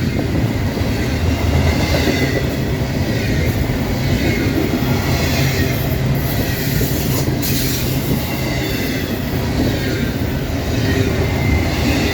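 Double-stack intermodal freight cars rolling past close by: a steady rumble of steel wheels on the rails with clickety-clack from the rail joints and a faint high wheel squeal.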